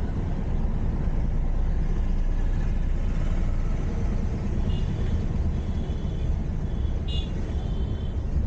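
Car driving along a road, a steady low rumble of engine and tyre noise. Brief faint high tones come in around five and seven seconds in.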